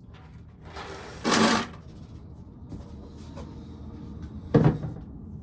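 Dry corn cobs and their containers being handled: a rattling scrape about a second in, light clicks, and a sharp knock near the end.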